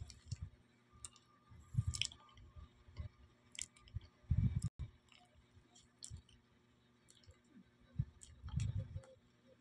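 Close-up chewing and mouth sounds of someone eating a banana, coming in irregular soft bursts with a few clicks between them.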